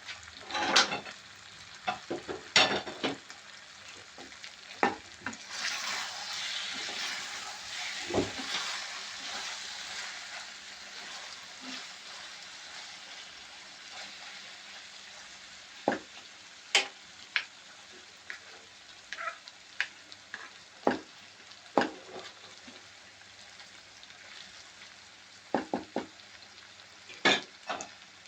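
Food sizzling in a frying pan while it is stirred, with a spatula or spoon scraping and knocking sharply against the pan every few seconds. The sizzle swells about five seconds in and then slowly dies down.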